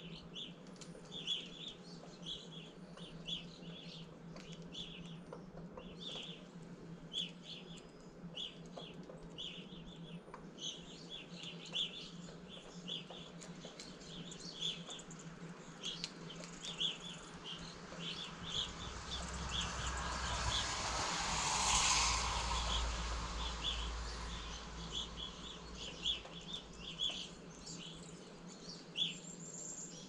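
Birds chirping over and over in short notes, with a vehicle going by on a road: a broad rumble that swells up about two-thirds of the way through and fades again. A low steady hum runs underneath.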